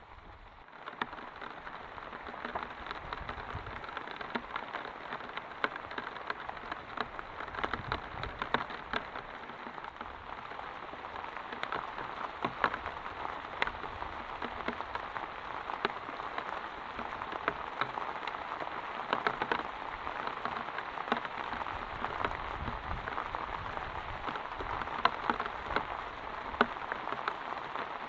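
Heavy rain falling steadily, a dense hiss spiked with many sharp drop impacts.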